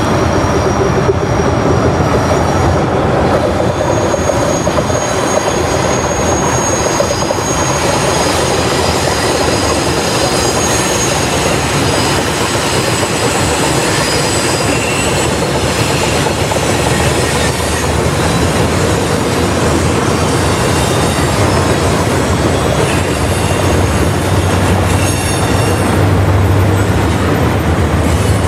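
Freight train cars rolling past steadily, with thin high-pitched wheel squeals over the rumble of the wheels. A deeper low hum builds near the end.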